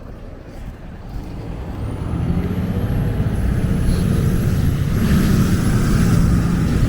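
A heavy road vehicle's engine, a truck or bus, running and growing louder as it approaches, with a thin high steady whine above it from about two seconds in.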